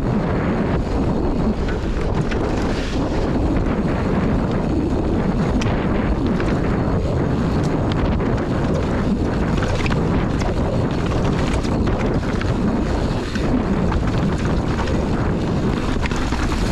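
Heavy wind buffeting the camera microphone on a downhill mountain-bike run, a steady loud rushing, with a few faint knocks of the bike over the trail.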